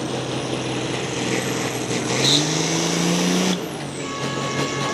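Pulling tractor's turbocharged engine running hard with a thin, rising turbo whistle. About three and a half seconds in, the throttle is cut sharply and the whistle and engine note fall away.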